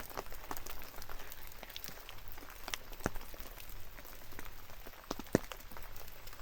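Light rain in a forest: a soft steady patter with scattered, irregular drops ticking onto wet surfaces.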